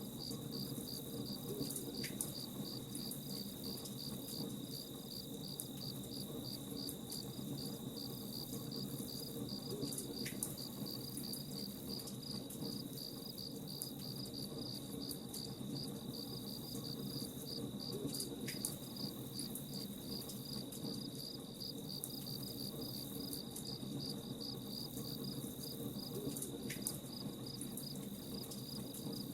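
Crickets chirping in a steady, fast pulse, with the scattered crackle of a campfire.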